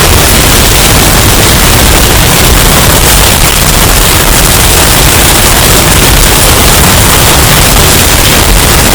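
Hurricane wind-and-rain sound effect, heavily bass-boosted and overdriven into distortion: a constant, very loud wall of noise with a heavy booming low end and no let-up.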